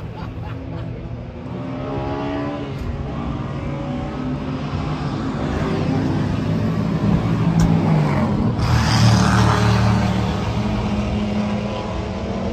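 Car engines running, with revs rising and falling; the engine sound grows louder about eight seconds in.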